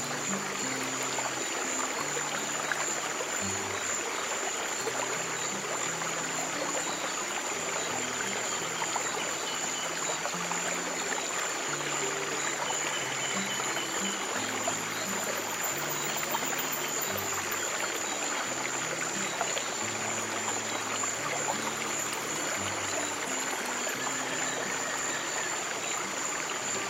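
Stream water running and trickling steadily, with soft, slow, low sustained music notes changing every second or two beneath it and a thin steady high tone above.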